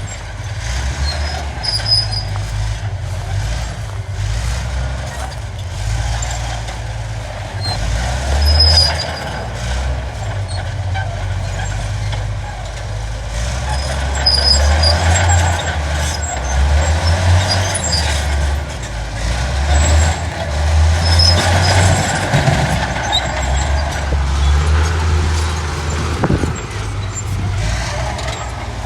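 Heavy diesel earthmoving machinery, a bulldozer and dump trucks, running. The engine note swells under load several times, around 8, 15 and 21 seconds in, with occasional short high squeaks and clanks over it.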